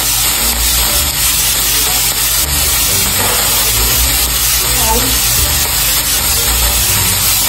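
Chopped bell peppers and ham sizzling steadily as they fry in a non-stick skillet.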